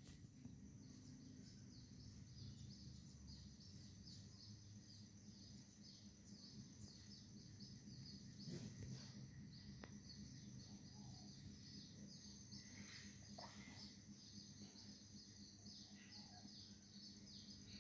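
Faint outdoor ambience: short, high, falling chirps repeated steadily about two or three times a second over a steady high drone.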